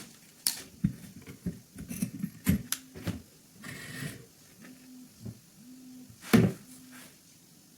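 Handling noise from pistol parts being worked on: irregular clicks and knocks, the loudest about six seconds in, with a short hiss around four seconds.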